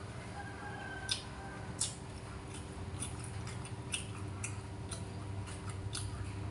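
A person chewing a mouthful of fried vegetarian food, close to the microphone: irregular wet mouth clicks and smacks, a little more than one a second, over a steady low hum.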